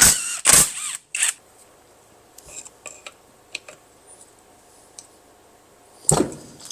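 Scattered faint clicks and light metal taps of hand tools at work on a cylinder head's fuel injector rail, with one louder thump about six seconds in.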